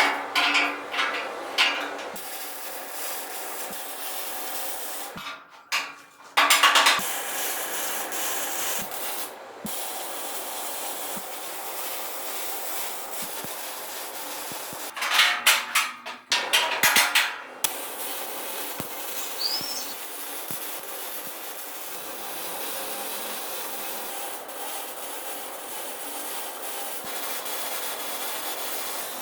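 Steady rubbing and scraping noise of hand work on the build, with louder scraping bursts near the start, about six seconds in and again around fifteen to seventeen seconds in.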